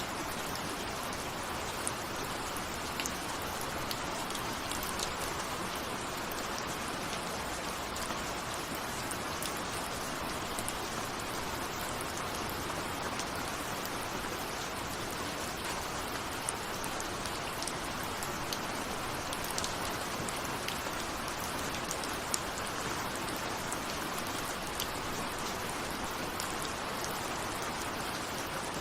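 Steady rain with no thunder, a constant hiss of falling water dotted with small individual drop ticks, typical of raindrops striking a window.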